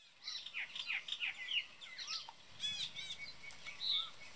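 Several birds chirping and calling, with many short sweeping whistled notes and a quick run of repeated notes about two and a half seconds in.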